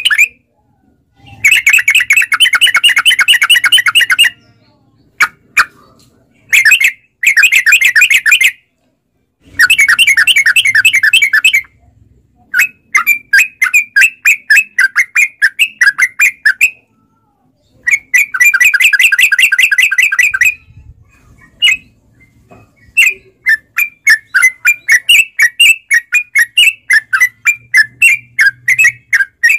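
Yellow-vented bulbul (trucukan) singing: loud, rapid chattering phrases of one to three seconds broken by short pauses, and runs of separate notes at about three a second, in the middle and towards the end.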